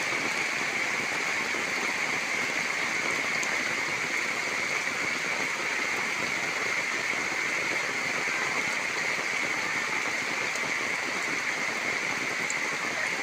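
Rain falling, a steady even hiss with no break.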